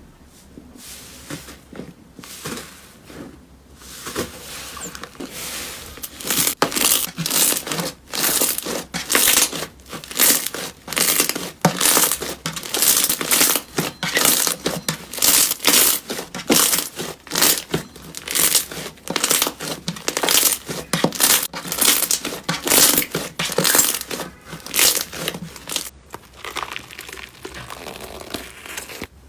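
Slime being squeezed and kneaded by hand, giving crackling, crinkly squishes in a steady rhythm of about two a second, quieter at first and dying away near the end.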